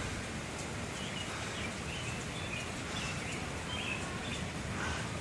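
Steady outdoor background hiss with faint, scattered short bird chirps from about a second in.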